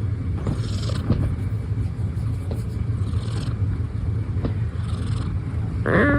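A cat gives one short, small meow near the end, over a steady low rumble.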